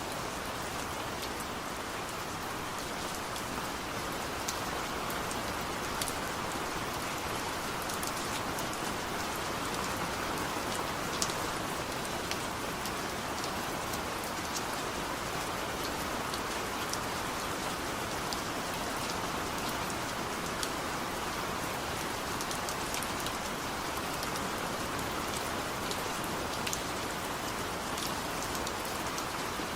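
Steady rain falling, a constant hiss with scattered sharp ticks of individual drops striking a surface.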